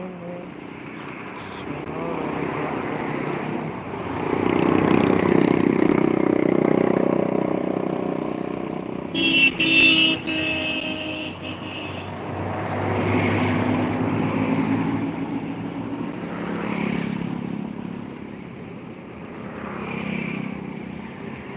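Road traffic going past close by, engine and tyre noise swelling and fading as each vehicle passes, with a short vehicle horn honk about nine seconds in.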